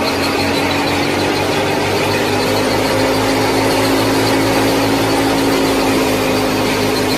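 Small electric motor of a miniature model tractor or thresher running steadily with a constant whine and mechanical rattle.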